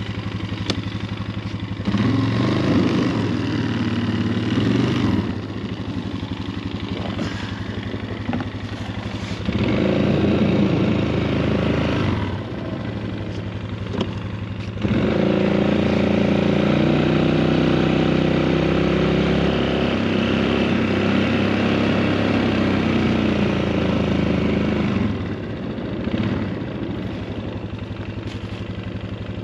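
Four-wheeler (ATV) engine idling, with three stretches of throttle as the machine is backed up and moved: a short one about two seconds in, another about ten seconds in, and a longer one from about fifteen to twenty-five seconds.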